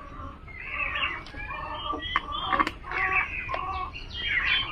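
Birds calling: a string of short, pitched calls, with a few sharp clicks between them.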